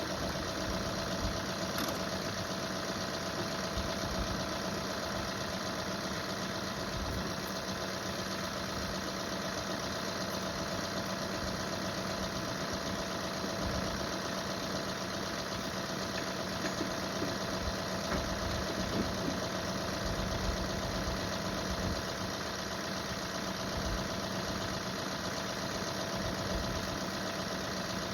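John Deere 3038E compact tractor's three-cylinder diesel engine running steadily, with no marked revving or change in speed.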